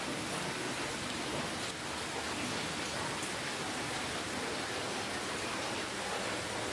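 Steady rainfall, a dense even hiss with faint scattered drop ticks.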